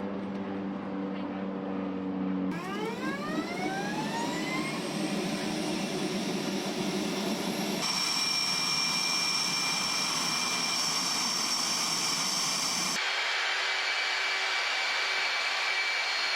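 Jet turbine engine spooling up, its whine gliding upward in pitch, then running with a steady high whine. The sound jumps abruptly a few times where pieces of recording are cut together.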